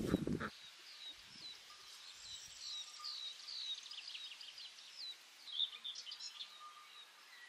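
Small songbirds singing in a series of short, quick chirps and warbled notes, some rising and some falling. A louder, low, rough noise is heard at the start and cuts off about half a second in.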